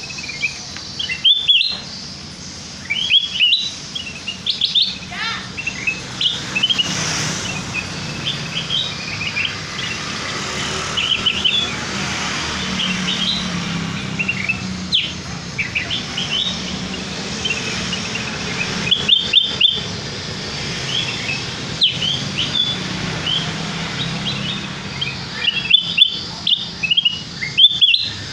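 Kutilang emas bulbul song used as a bird-trapping lure call: quick clusters of short, sharp chirping notes that run on with brief pauses, over a low steady hum.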